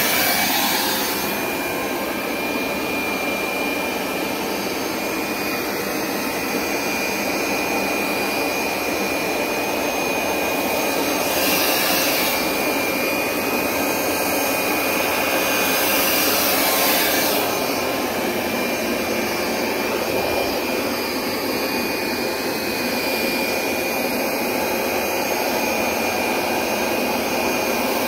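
Hoover SmartWash Pet Complete automatic carpet cleaner running over a rug, its suction motor giving a steady whine with a thin high tone. The hiss brightens briefly about twelve seconds in and again around seventeen seconds.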